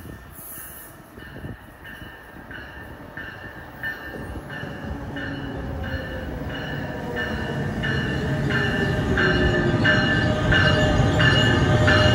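NJ Transit electric-locomotive-hauled commuter train approaching and pulling into the station, its rumble growing steadily louder. Over it the locomotive's bell rings steadily, getting louder as the train nears.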